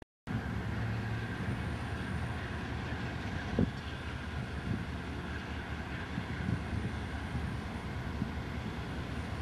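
Approaching Union Pacific coal train behind GE diesel locomotives: a steady low engine rumble mixed with wheel and rail noise. A single sharp knock sounds about three and a half seconds in.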